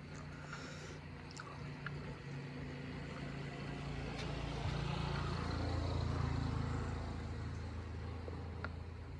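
A motor vehicle passing on the road: a low engine hum that grows louder, is loudest about six seconds in, then fades as it goes by.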